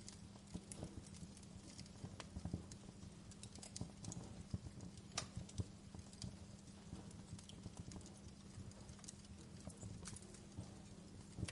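Wood fire in a fireplace crackling, with irregular sharp snaps and pops of burning logs, a few louder ones among many small ticks, over a low steady hum.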